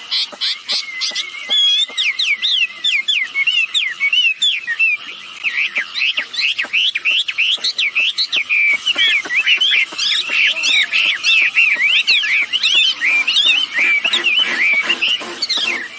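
A bird known locally as wambi singing a rapid, continuous chatter of short whistled notes that slide up and down, several a second.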